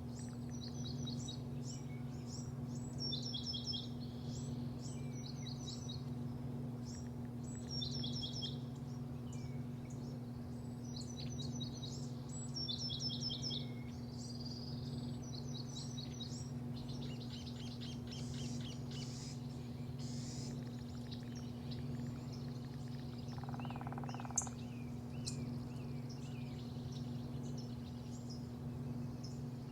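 A songbird singing short repeated phrases of high, quickly falling notes, every second or two, thinning to scattered chirps in the second half, over a steady low hum. One sharp click comes about 24 seconds in.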